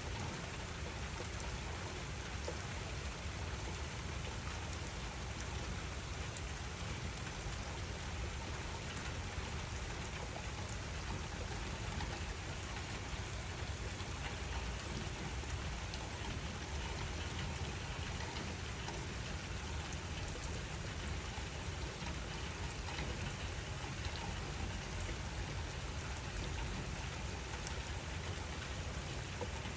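Steady rain falling, an even hiss and patter with scattered individual drops ticking over a low rumble.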